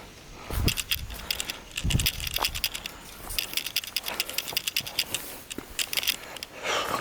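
Footsteps on a woodland trail: dry leaf litter and twigs crunching and crackling underfoot, with dull thuds of the footfalls.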